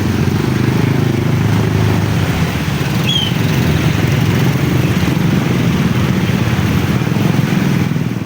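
Motor vehicle engines, motorcycles among them, running steadily in road traffic, with a brief high chirp about three seconds in.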